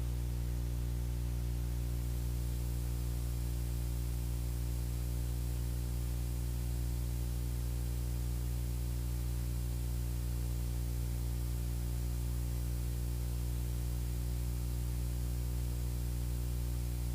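Steady drone of a Beechcraft Bonanza's piston engine and propeller, heard in the cockpit on final approach with the propeller set forward for landing. It holds one even pitch with no change in power.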